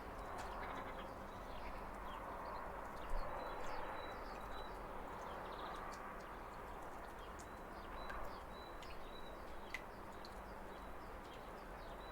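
Waterfall rushing steadily, with birds chirping over it in short high chirps and brief repeated notes. One sharper click sounds about three seconds in.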